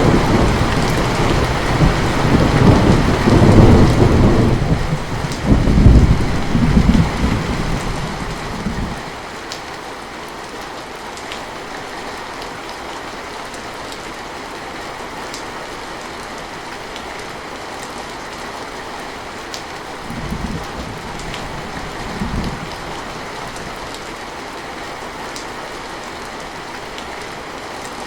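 Heavy rain falling steadily, with a long rolling rumble of thunder for the first several seconds that dies away about nine seconds in. Two brief, fainter thunder rumbles follow later.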